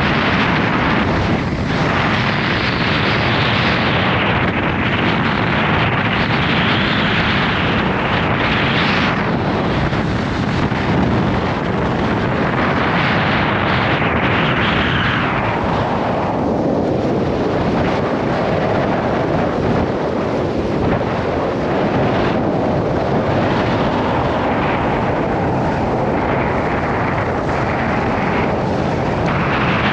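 Gale-force wind (force 8–9) buffeting the microphone: a loud, continuous rushing rumble whose upper hiss swells and eases with the gusts.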